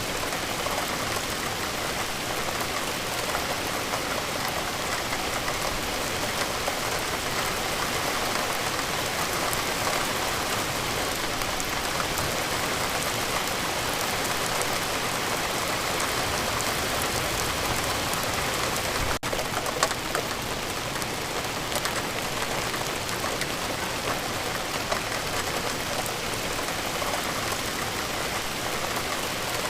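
Steady rain falling, an even hiss of drops on a surface, with a brief break and a click about two-thirds of the way through.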